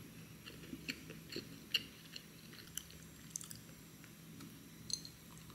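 A person chewing a bite of dark chocolate rye scone, close to the microphone: soft, irregular crunchy clicks, a few louder ones spread through.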